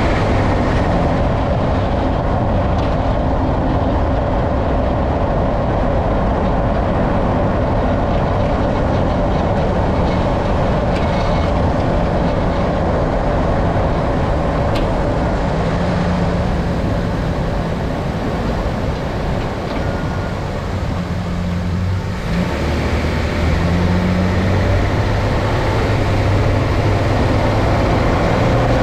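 Steady rumble of a 2012 Nissan Frontier Pro-4X pickup being driven: road and engine noise throughout, easing briefly about three-quarters of the way through.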